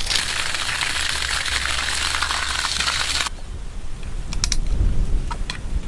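Water splashing steadily. It cuts off abruptly after about three seconds, leaving a low rumble and a few faint clicks.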